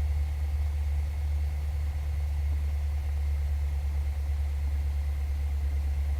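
Cessna 172's piston engine idling steadily as the plane taxis, a constant low drone heard inside the cabin.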